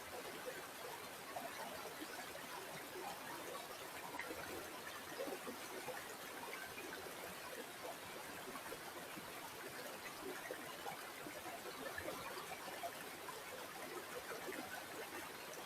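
River water flowing and trickling steadily, with a constant stream of small splashes and gurgles.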